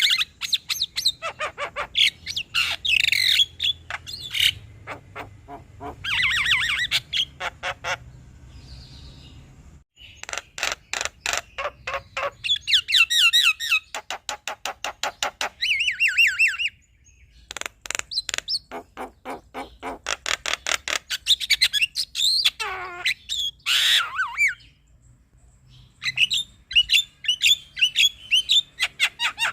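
Male Javan myna (jalak kebo) singing: bursts of rapid repeated notes and chattering trills, broken by a few short pauses.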